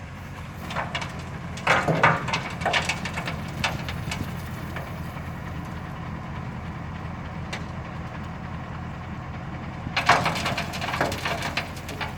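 Broken brick cracking and crunching under heavy road-building machinery, over the steady drone of its diesel engine. The crunching comes in bursts, about two seconds in and again near the end.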